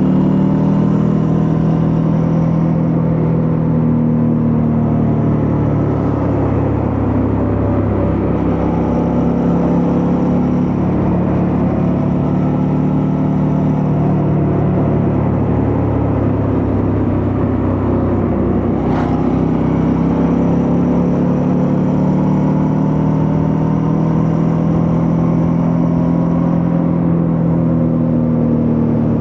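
Suzuki V-Strom 650's 645 cc V-twin engine running under way while riding, its pitch rising and falling gently with the throttle. A short click is heard about two-thirds of the way through.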